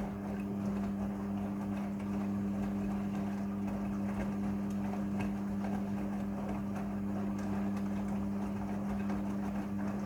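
Midea front-loading washing machine running with a steady, even hum over a rushing noise. The hum stops abruptly near the end.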